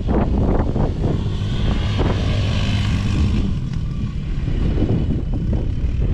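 Small single-cylinder four-stroke engine of a kids' off-road machine running, its pitch rising and falling about two to three seconds in, with wind rumbling on the microphone.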